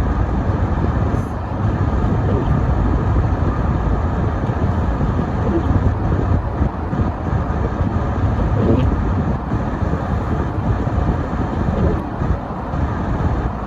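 Car being driven: a steady low rumble of road and engine noise.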